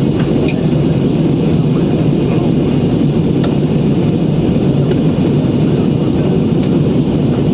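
Steady low roar of an aeroplane's engines and airflow heard from inside the passenger cabin, with no change in level.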